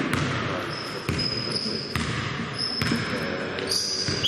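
Basketball being dribbled on an indoor court, a bounce about once a second, with high squeaks on and off and voices echoing in the hall.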